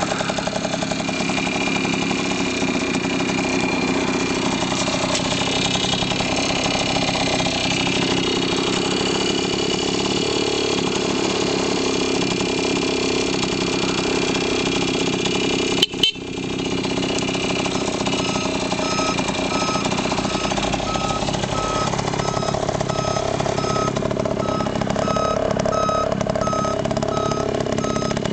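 Suzuki K50's small single-cylinder two-stroke engine running steadily at idle, with a brief dropout about sixteen seconds in. In the second half a short beep repeats at an even pace over the engine.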